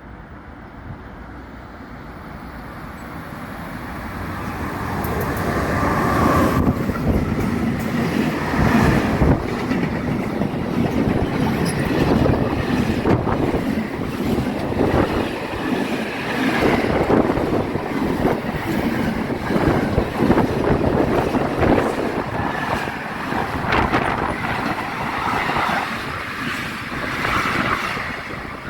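A train passing through the station, its sound building over the first few seconds and then staying loud, with a dense run of wheel clatter and knocks over rail joints and points.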